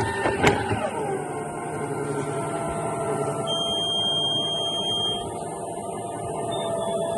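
Electric point machine motor driving railway points over to normal, with clicks near the start, then a steady whine that drops slightly in pitch and settles about a second in. A thin high tone sounds for a couple of seconds midway.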